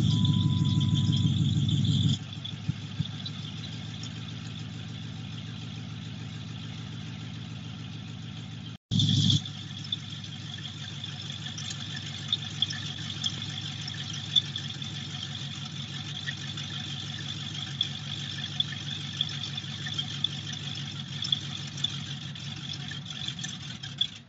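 Car engine running on its first start-up: louder for about two seconds, then settling to a lower, steady idle. About nine seconds in the sound drops out for a moment and comes back with a short louder stretch before steadying again, with scattered light ticks over the idle.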